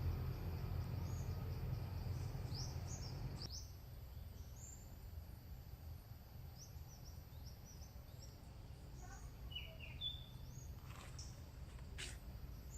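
Small birds chirping in forest, many short, quick high calls throughout. A low rumble underneath stops about three and a half seconds in, and two sharp clicks come near the end.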